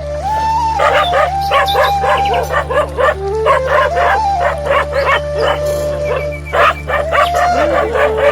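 A dog barking and yelping in quick, rapid calls over background music with a held, stepping melody line.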